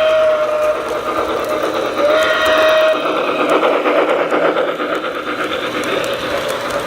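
Lionel TMCC model train locomotive's onboard sound system sounding its whistle: one blast ending just under a second in, then a second blast about two seconds in lasting about a second. Underneath runs the steady, rhythmic running noise of the train.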